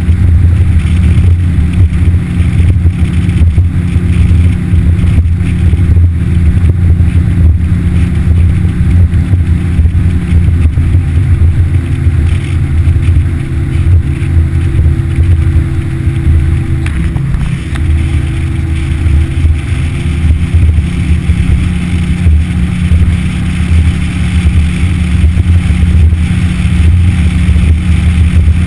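Yamaha F60 four-stroke outboard motor running steadily at an even speed, with a slight shift in tone a little past halfway.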